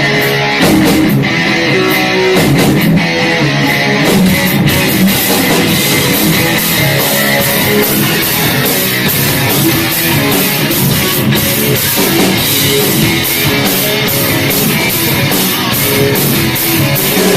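Live heavy-metal band playing the instrumental opening of a song: electric guitar riffing over a drum kit, with steady cymbal and drum hits filling in from about four seconds in.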